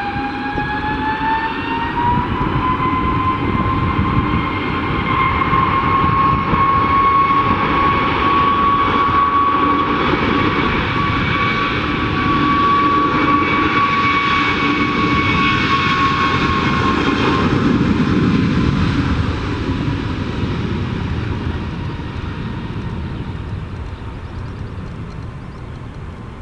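Airbus A320-232's IAE V2500 turbofan engines at takeoff thrust. A whine rises in pitch over the first two seconds as the engines spool up, then holds steady over a deep rumble. The sound is loudest mid-way and fades steadily over the last several seconds as the jet moves away.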